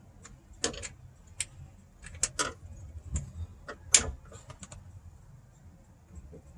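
Small metal parts clicking and clinking as a window bracket and its screws are handled and fitted: a string of sharp, irregular clicks, loudest about four seconds in.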